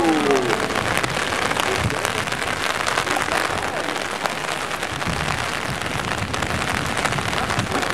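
Steady rain falling on a rooftop: an even hiss of rain with scattered sharp drop ticks throughout.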